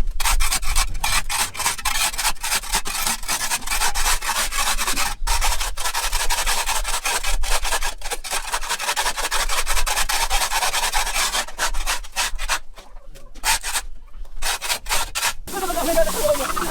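Rapid back-and-forth scrubbing strokes on a hard surface, several a second, like a stiff brush working at dirt. Near the end the strokes break up with short pauses, then stop.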